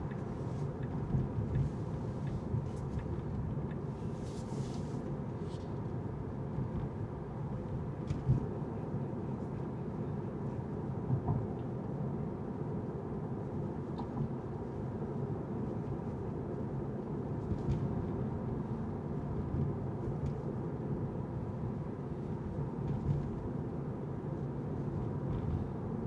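Car driving: a steady low rumble of road and engine noise, with a few brief faint knocks.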